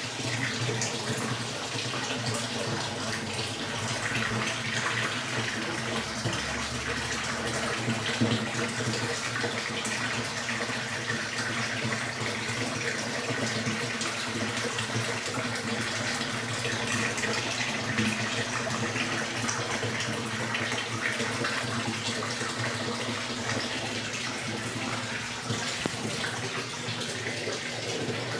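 Electrolux Turbo Economia LTE12 washing machine with water running steadily into its tub, a continuous rushing over a low hum.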